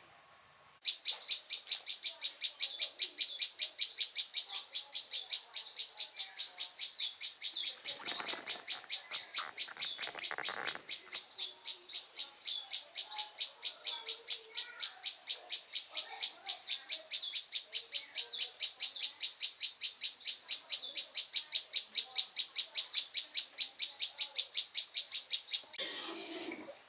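A bird chirping over and over at a steady pace, about three high chirps a second. It starts and stops abruptly.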